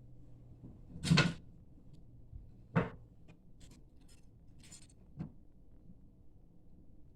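A few sharp knocks and clicks over a low steady hum. The loudest comes about a second in, followed by a smaller knock and several light clicks.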